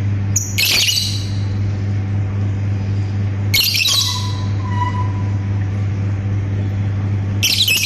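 Pet lovebird giving three short, harsh, high-pitched chirping calls a few seconds apart, over a steady low hum.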